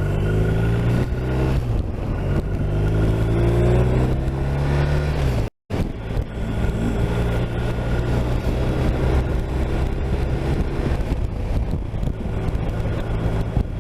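BMW R 1250 RT's boxer-twin engine pulling as the motorcycle accelerates, its pitch rising steadily for about five seconds over wind and road noise. The sound cuts out for an instant, then the engine runs on at a steadier speed.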